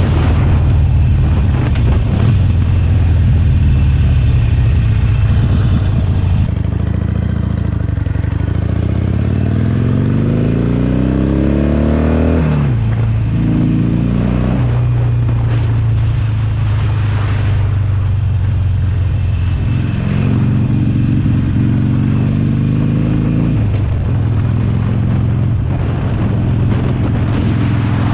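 Harley-Davidson Sportster Forty-Eight's V-twin engine running under way through a Jekill & Hyde valve exhaust, mixed with rushing noise. Its note climbs for about four seconds, drops suddenly at a gear change, then climbs briefly again. Later it settles at a steady cruise before another climb and drop near the end.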